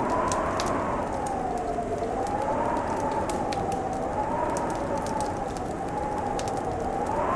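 Wood fire crackling with many small sharp pops, over a steady rush of winter wind whose whistling tone slowly rises and falls.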